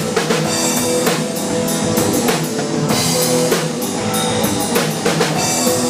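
Rock band playing an instrumental passage between vocal lines: drum kit with a steady beat under guitars.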